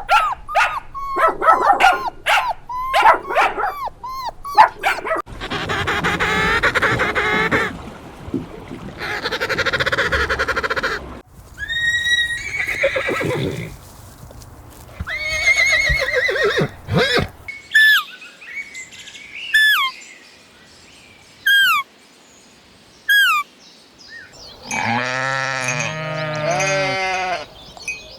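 A run of farm animal calls, one clip after another: quick pitched calls at first, then several long harsh cries, then a few short falling chirps spaced well apart, and a long wavering bleat near the end.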